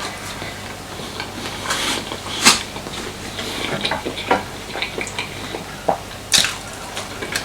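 Close-up eating: chewing with scattered clicks and clinks against a plate, the sharpest about two and a half seconds and six seconds in.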